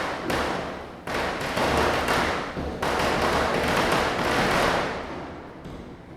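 Diwali firecrackers bursting: sharp bangs at the start and again about a second in, running into a dense, continuous crackle that fades away after about five seconds.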